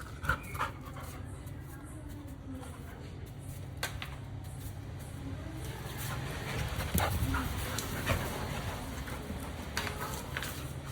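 Labrador retriever's sounds while playing, with scattered sharp clicks and knocks over a steady low hum.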